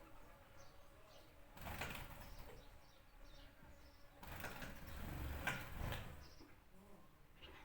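Birds: faint short chirps, with two louder rustling bursts, one about two seconds in and a longer one in the middle.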